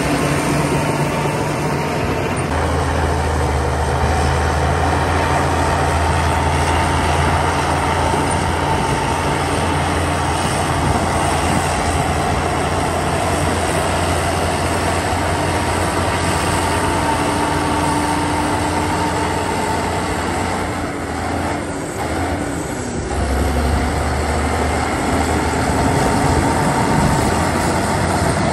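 Heavy diesel engine of earthmoving machinery running steadily with a low drone. It drops briefly about three-quarters of the way through, then picks up again.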